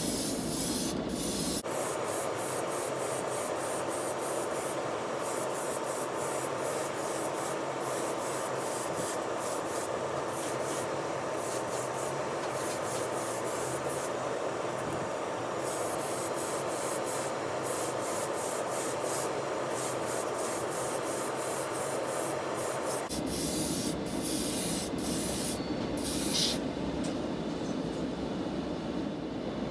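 Steady abrasive rubbing, like sanding, on a small diecast toy car, cut abruptly about 2 and 23 seconds in.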